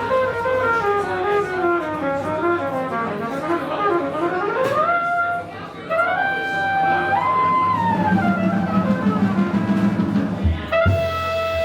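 Live jazz with a horn soloist playing fast runs that rise and fall. From about halfway the horn moves to longer held notes stepping upward, with a low accompaniment underneath.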